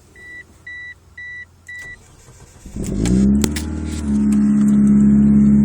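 A dashboard warning chime beeps about twice a second. About three seconds in, the car's engine cranks and catches, flares briefly, then settles into a steady idle.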